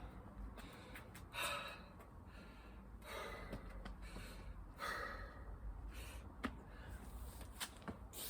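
A man breathing hard from exertion, with heavy gasping breaths about every one and a half to two seconds. A few light clicks come near the end.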